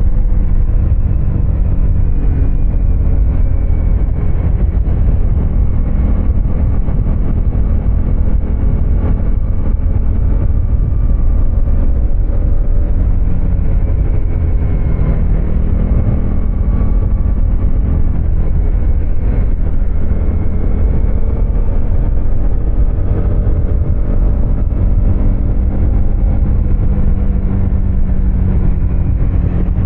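2024 Husqvarna Svartpilen 250's single-cylinder engine running under way, holding fairly steady revs that rise and fall gently, over a heavy low rumble.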